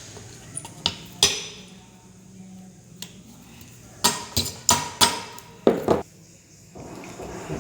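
Sharp metallic knocks and clinks of tools against ceiling fan parts during assembly. A few single knocks come first, then a quick run of about seven in the second half.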